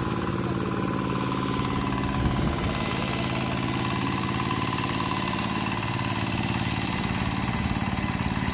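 Rice-field tractor's engine running steadily while plowing, with an even firing rhythm.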